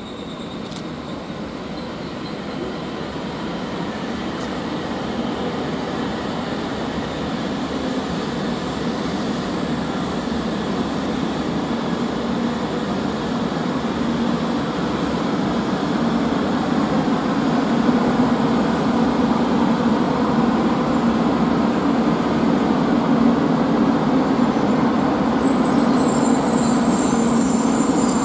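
E2 series Shinkansen running along the platform track, a steady rumble of wheels and motors with a hum that grows louder as the cars roll past. A high hiss joins near the end.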